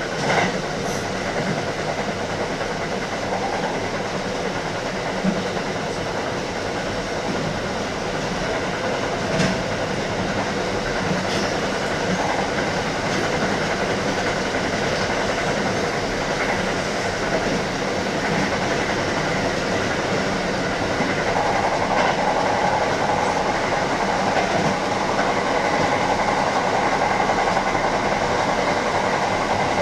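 Kintetsu electric train running along the track, heard from inside at the front of the train: a steady rumble of wheels on rail with a few sharp clicks in the first half. About two-thirds of the way through the running noise grows a little louder and brighter.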